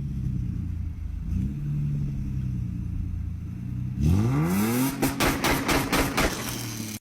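Car engine idling with a steady low note, then revved hard about four seconds in, its pitch sweeping sharply upward. A quick series of sharp cracks from the exhaust follows, before the sound cuts off.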